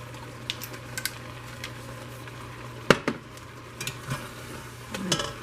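Metal spoon knocking and clinking against a cooking pot while stirring noodles, with one sharp knock about three seconds in, over a steady low hum.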